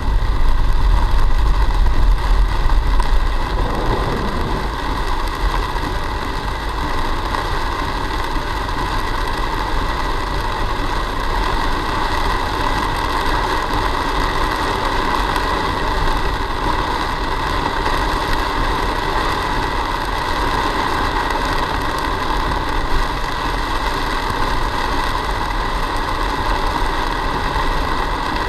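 Car driving, heard from inside the cabin through a dash camera: steady engine and road noise, with a heavier low rumble in the first few seconds.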